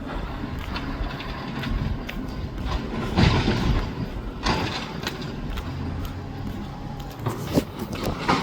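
Garbage truck running with a steady engine drone, broken by two loud crashes about three seconds and four and a half seconds in, and a few sharp knocks near the end.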